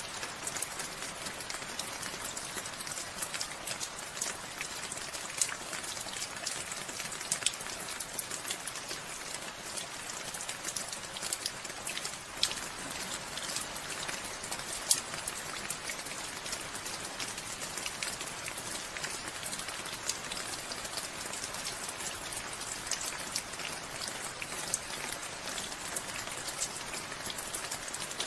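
Steady rainfall, an even hiss with many sharp ticks of individual drops striking surfaces close by.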